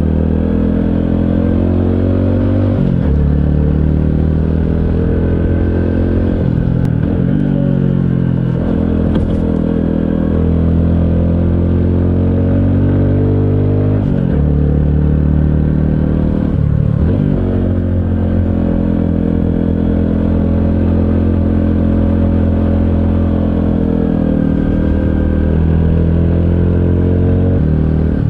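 Honda CT125 Hunter Cub's 125cc air-cooled single-cylinder engine running under way, heard on board, its revs dropping and rising again several times.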